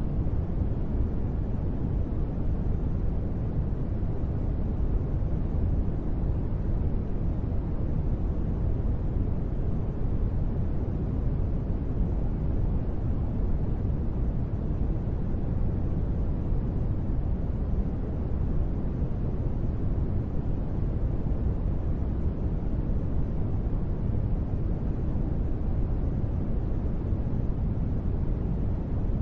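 Steady, deep rushing noise with no breaks or separate drops, heavy in the bass and dull on top: a continuous sleep-noise bed billed as gentle rain.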